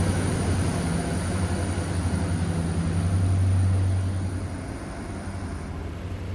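A passing train, with a steady low engine drone over rumble that fades away after about four seconds as it moves off.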